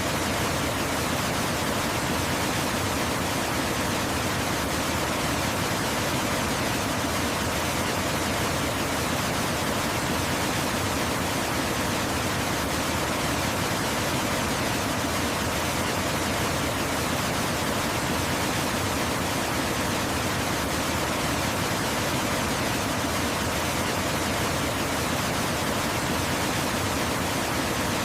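Waterfall rushing: a steady, even hiss spread across the whole range from low to high, with no changes or separate splashes.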